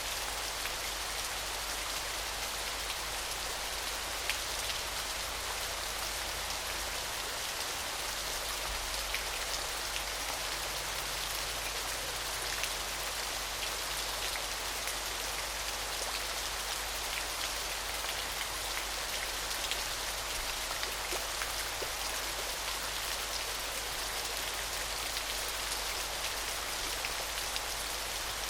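Small waterfall splashing steadily: an even rush of falling water, flecked with many small drips and splashes.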